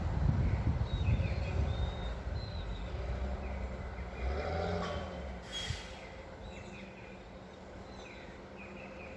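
Low rumble of a heavy vehicle's engine that fades away over the first five or six seconds, with birds chirping now and then.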